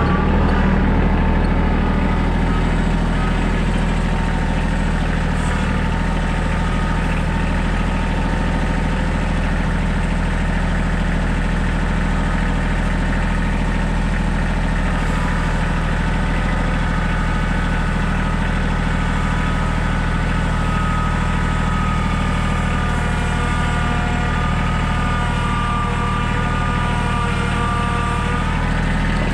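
Small tractor's engine idling steadily.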